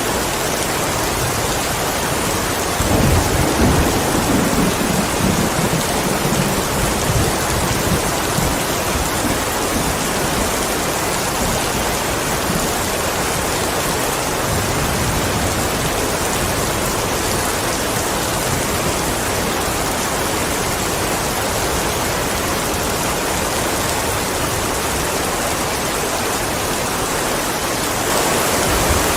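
Steady heavy rain hissing, with a low rumble of thunder rolling in about three seconds in and fading over the next several seconds.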